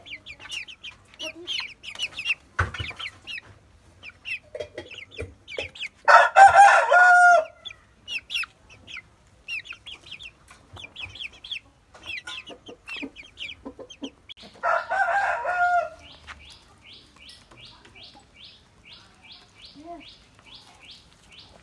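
Parrot Beak Aseel chickens: a rooster crows loudly twice, about six seconds in and again about fifteen seconds in, over a constant scatter of short, high cheeping calls. Near the end the cheeping settles into an even run of about two or three chirps a second.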